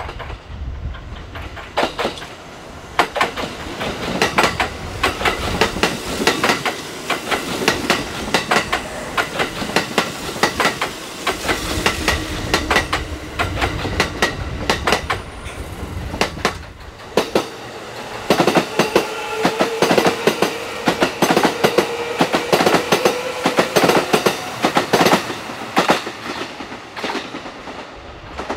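Kintetsu electric train running through the station, its wheels clattering over rail joints in a fast, uneven rhythm, with a faint whine that rises slightly in pitch over the second half.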